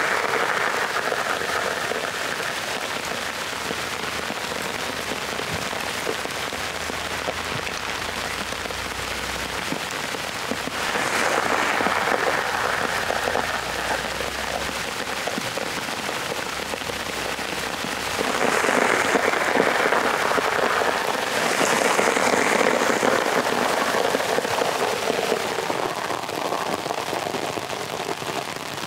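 Food sizzling and spitting in hot oil in a pan, a dense crackling hiss that shifts abruptly in tone several times.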